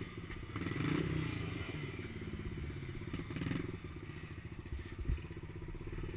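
Small pit bike engine running steadily at low revs, swelling slightly a couple of times, with a brief low knock near the end.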